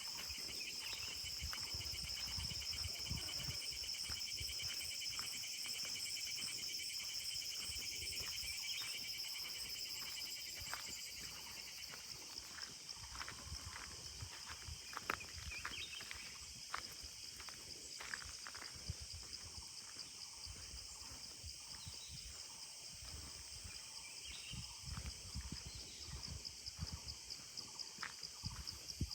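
Insects trilling steadily at a high pitch, louder for the first ten seconds or so and then fading, over regular footsteps at a walking pace of about two steps a second.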